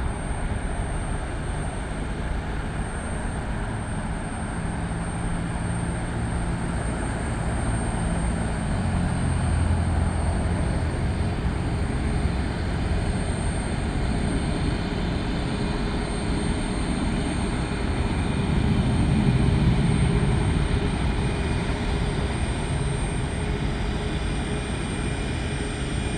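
The three jet engines of a McDonnell Douglas MD-11F freighter at takeoff thrust: a steady, deep rumbling noise that swells slightly about three-quarters of the way through.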